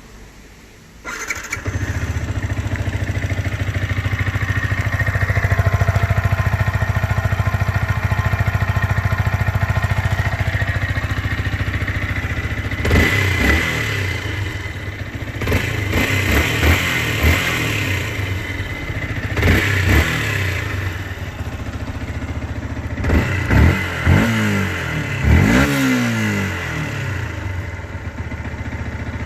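Yamaha MT-125's 125 cc single-cylinder four-stroke engine on its stock exhaust, starting about a second in and idling steadily. In the second half it is blipped several times, each rev rising and falling back to idle.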